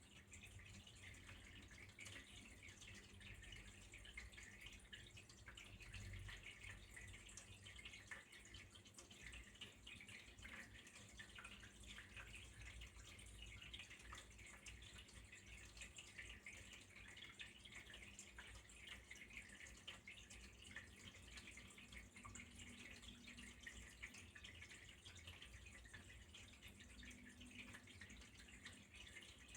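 Faint, steady trickle of running water with a dense patter of small drips.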